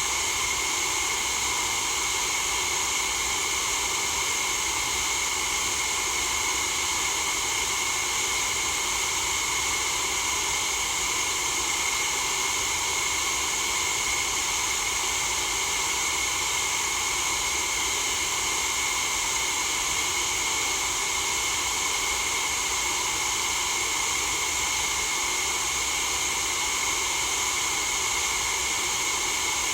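Continuous white-noise hiss that never changes, with a rushing quality from several emphasised pitch bands.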